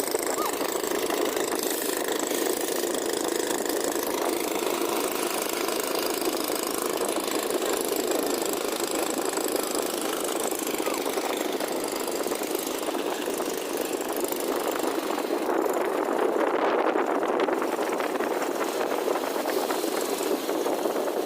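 Cantrang fishing boat's engine running steadily with a rapid, rough chugging.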